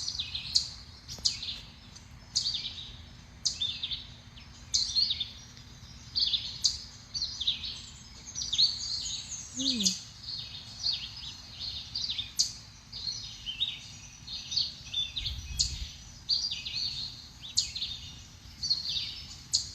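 Songbirds at a backyard feeder chirping, short high calls repeating about once or twice a second without a break.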